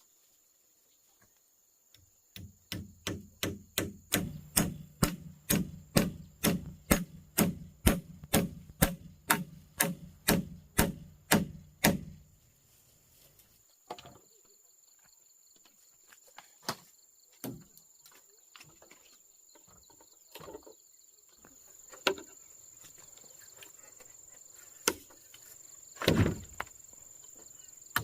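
Repeated blows of a tool on wood, about two a second for some ten seconds, each with a short low ring, then a few scattered single knocks, over a steady high drone of insects.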